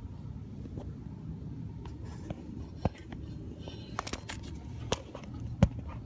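Scattered sharp clicks and light knocks, several close together about four seconds in, over a low steady rumble.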